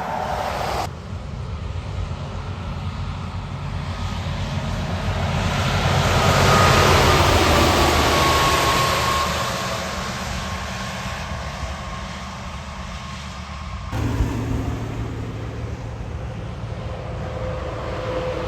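Heavy truck driving past: engine drone and tyre noise swell to a peak about seven seconds in, with a slowly falling whine, then fade. The sound changes abruptly near the start and again about fourteen seconds in.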